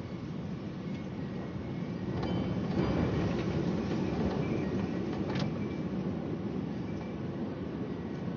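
Strong wind rumbling and gusting, swelling for a few seconds in the middle before easing back.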